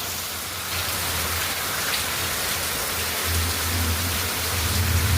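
Heavy rain pouring down in a steady hiss, with a low rumble coming in about three seconds in.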